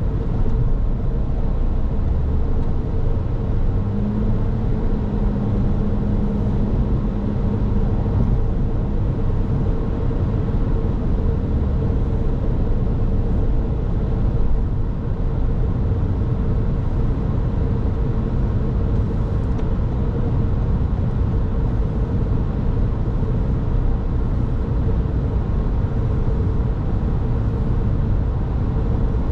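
Car driving along a road: a steady rumble of tyres and engine with a constant drone, and a lower hum that comes in briefly between about four and eight seconds in.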